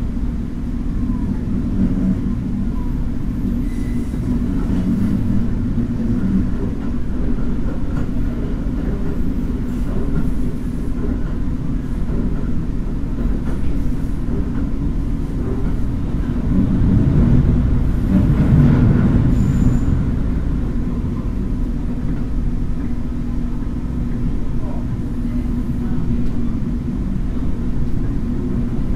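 Taiwan Railways DRC1000-series diesel railcar running at about 30 km/h, heard from on board: a steady low rumble of the moving train, swelling a little louder for a few seconds past the middle.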